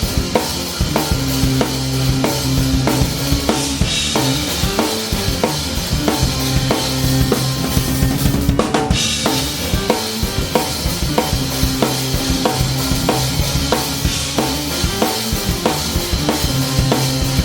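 Rock band playing an instrumental passage live, with the drum kit loud and close: steady kick and snare hits under a constant cymbal wash, over held low bass and guitar notes.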